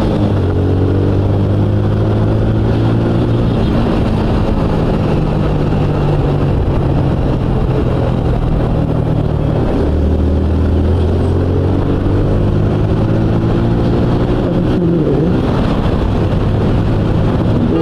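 Suzuki Gixxer motorcycle engine running at steady riding speed, with wind and road noise. Its note drops lower about ten seconds in, then rises again near the end.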